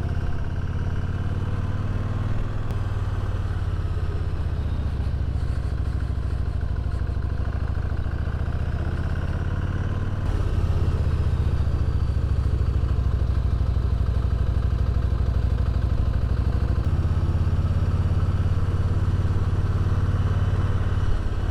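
Motorcycle engine running under way on a steep climb, a steady hum whose pitch shifts a few times and which gets louder about halfway through.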